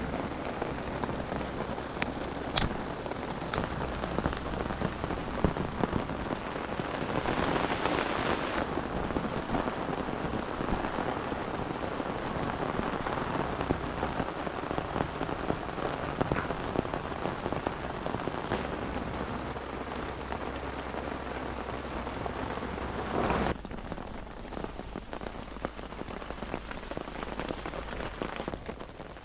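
Steady rain falling on the surroundings, a dense even hiss with a few sharp clicks in the first few seconds. About three-quarters of the way through the sound changes abruptly and becomes a little quieter, the low rumble dropping out.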